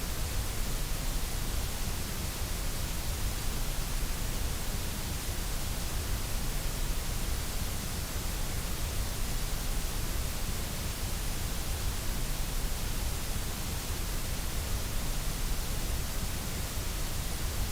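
Generated white noise for sleep: an even, unbroken hiss with a low rumble beneath it, holding at one level throughout.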